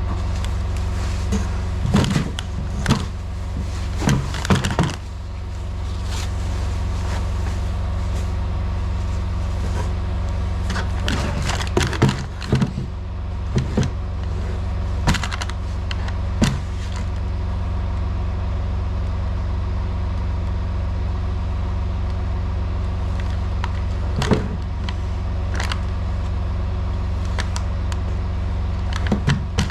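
Semi truck's diesel engine idling steadily, with scattered knocks, clicks and scrapes of a box being opened and parts handled over it.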